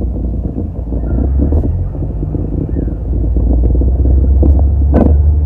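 Volkswagen MK4 Bora engine running through its newly installed exhaust: a steady low rumble that grows a little louder partway through, with one sharp click about five seconds in.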